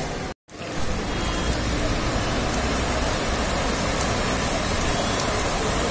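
Heavy rain falling steadily, an even rushing hiss. The sound drops out for a moment just under half a second in.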